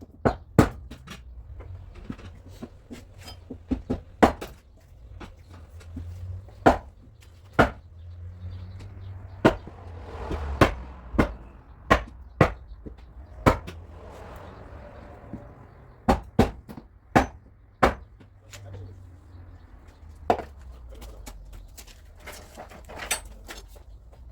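Hammer tapping out dents in a car's sheet-metal body panel: sharp single blows at an uneven pace, roughly one a second, sometimes two or three in quick succession. A rougher rushing noise comes up twice in the middle.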